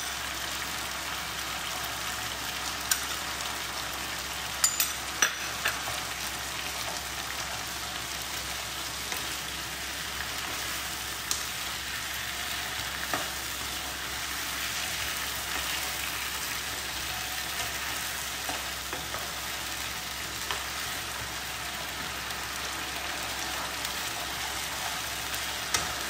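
Mutton pieces frying in oil in a wok, a steady sizzle as ginger-garlic paste is added and stirred in. A few sharp knocks of the spoon and spatula against the pan, mostly in the first several seconds.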